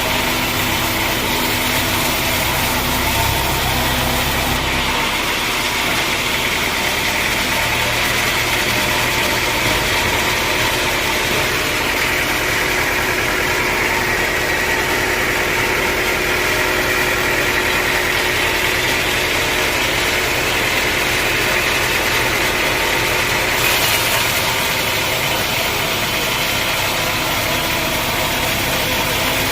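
Sawmill saw running through a dense acacia log: a steady, loud machine noise with a high whine that grows stronger through the middle of the cut and eases near the end, over a low motor hum that changes pitch twice.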